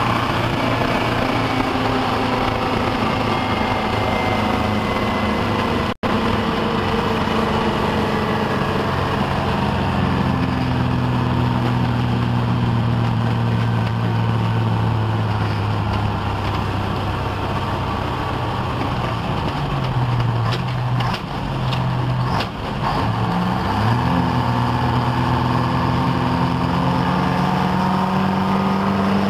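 GMC tow truck's Detroit Diesel 4-71 two-stroke diesel engine running steadily under load. Its pitch slowly sags, dips and wavers about three-quarters of the way through, then climbs again. The sound cuts out for an instant about six seconds in.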